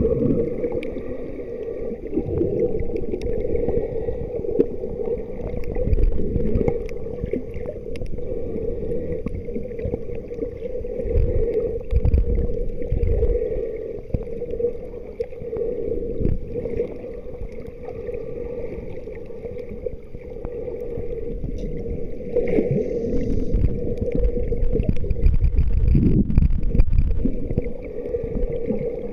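Water splashing and sloshing around a kayak on the move, with wind buffeting the microphone in uneven gusts and a steady hum throughout.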